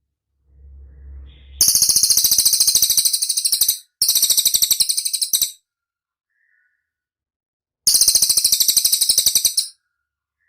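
A bird calls in three bouts of rapid, evenly repeated high-pitched notes, each bout lasting about two seconds, with pauses between them. A faint low rumble comes just before the first bout.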